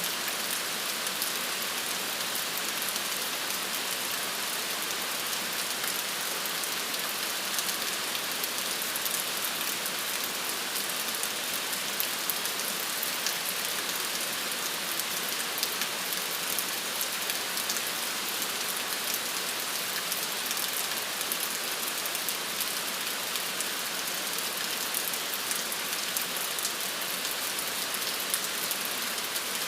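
Steady rain falling, a dense even hiss with fine scattered drop patters.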